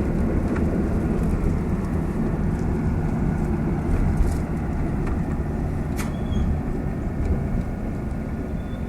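Steady low rumble of a car on the move, engine and road noise, with a single click about six seconds in.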